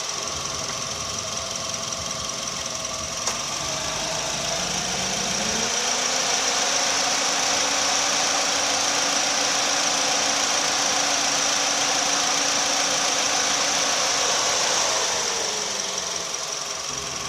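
Suzuki Swift engine revved up gradually over about five seconds, held at a steady raised speed, then let back down toward idle near the end. A steady high whine runs throughout.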